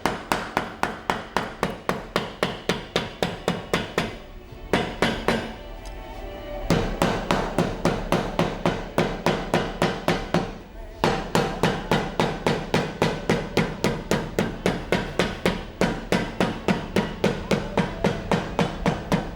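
Boot maker's hammer striking a boot sole at about three or four blows a second, with two short pauses, hammering the glued channel flap closed.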